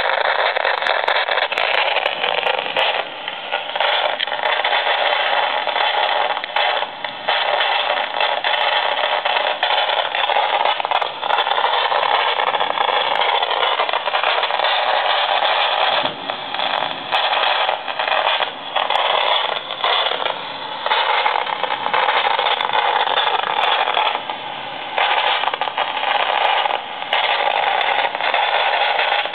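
AM radio tuned between stations, playing a steady hiss of static broken by frequent crackles and pops and brief dropouts. The crackles are lightning strikes picked up as radio interference during a thunderstorm.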